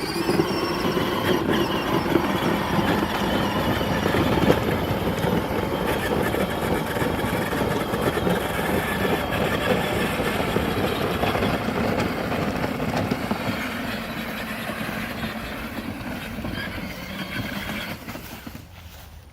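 Power Wheels battery-powered ride-on truck driving: a steady electric motor and gearbox whine with tyres rolling over the ground. It starts suddenly and fades out near the end.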